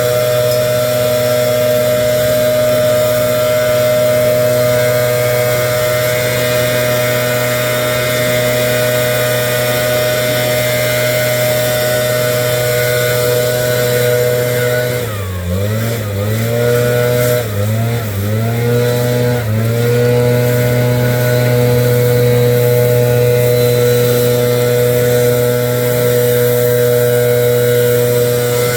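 Gas-powered leaf blower running at a steady high throttle. About halfway through, its engine pitch drops and climbs back three times in quick succession, then holds steady again.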